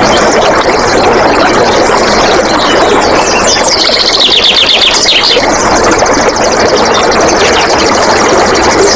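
Steady rush of flowing water, with wild birds singing over it; around the middle one bird gives a fast trill of rapid repeated high notes.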